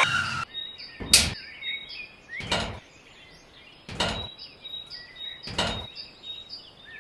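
A small engine buzz cuts off at the start, followed by four separate sharp knocks about a second and a half apart, with birds chirping faintly in the background.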